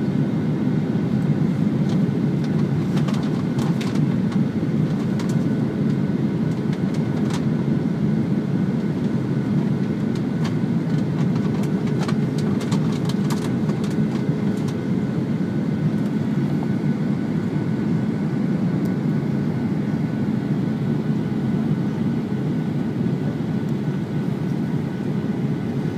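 Steady roar of cabin noise inside a Boeing 737-900ER in flight: its CFM56-7B engines and the rush of air around the fuselage, with a faint steady hum. A few light clicks sound between about 3 and 15 seconds in.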